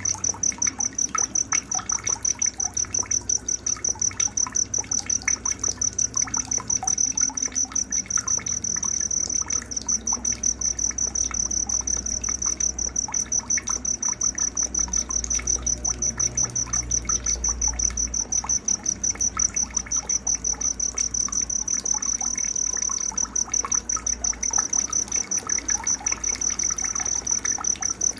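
Night nature ambience: an insect, likely a cricket, chirping loudly in an even pulse of about three chirps a second on one high pitch, over scattered short bird calls.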